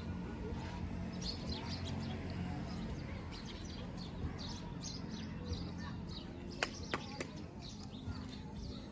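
Small birds chirping in quick, scattered calls over a low steady hum, with two sharp clicks about two-thirds of the way in.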